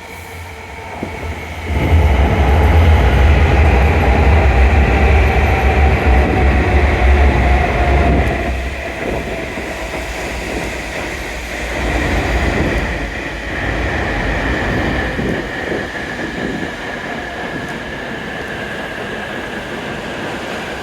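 E7-series Hokuriku Shinkansen train pulling into the platform and slowing. A heavy rumble sets in about two seconds in and eases after about nine seconds, while the motor whine slowly falls in pitch as the train brakes toward a stop.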